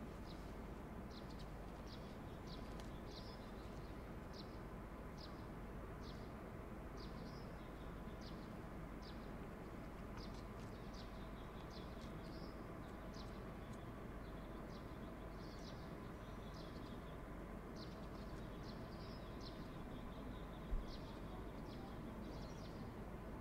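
A small bird's short, high chirps repeating roughly once or twice a second over a faint, steady low background rumble, with a single low bump near the end.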